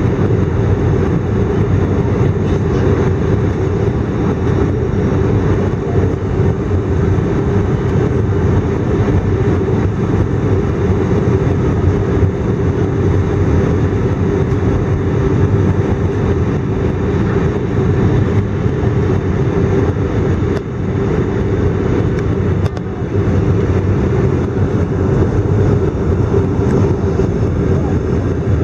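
Airbus A319 engine and airflow noise heard inside the passenger cabin: a steady loud rumble with a constant hum.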